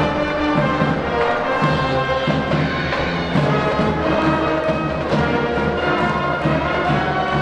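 Brass band playing a tune continuously, held brass notes changing about once a second over light drumming.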